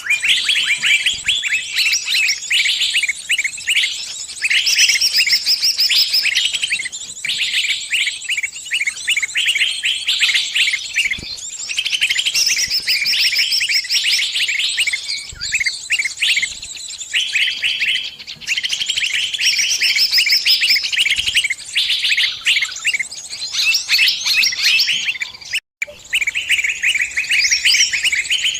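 Small songbird distress calls, the 'trapped bird' (burung kejepit) cry: rapid, dense high chirps and chattering trills, one call series after another without pause. The sound of a caught bird calling other birds for help, with a momentary break near the end.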